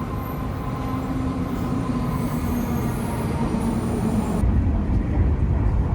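Taiwan High Speed Rail bullet train running: a steady rumble with a faint whine. About four and a half seconds in, the high hiss cuts off abruptly and a heavier low rumble remains.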